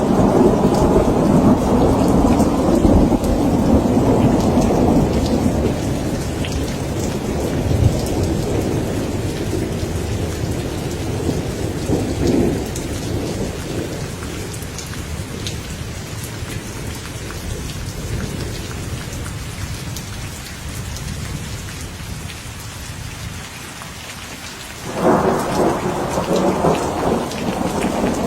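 Steady rain with rolling thunder. A long rumble fades away over the first several seconds, a weaker rumble swells around twelve seconds in, and a sudden new thunderclap breaks out near the end.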